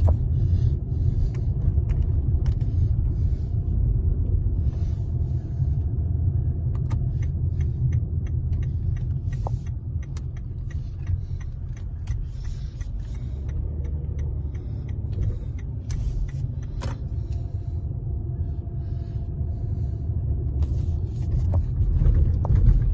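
A steady low rumble with faint scattered clicks and ticks above it.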